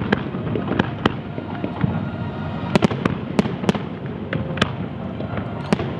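Aerial fireworks display: a continuous rumble of shell bursts and crackling, cut by sharp cracks that come in a quick cluster about three seconds in.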